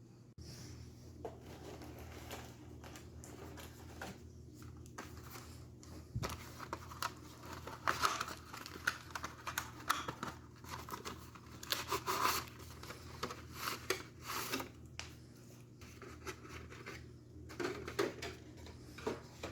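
Paper and cardboard packaging rustling and crinkling as old boxes are handled and opened, in irregular crackles and scrapes, over a faint steady hum.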